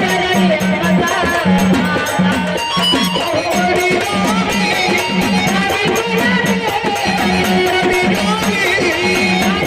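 Marathi folk music from a live performing party: a bending melody line over a steady, rhythmically pulsing low beat.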